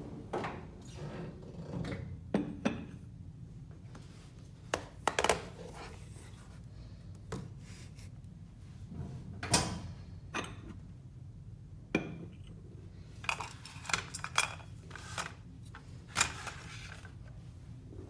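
Household objects being handled: a string of irregular light knocks, clicks and clinks, a few sharper than the rest, over a low steady hum.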